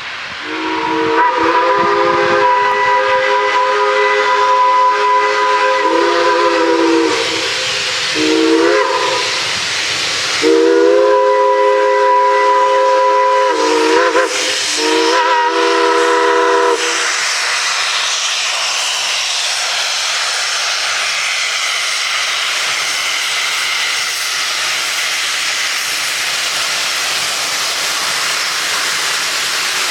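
Steam locomotive whistle, several notes sounding together, blown in four blasts: a long one, a short one, another long one and a shorter one. Afterwards, steady hissing steam.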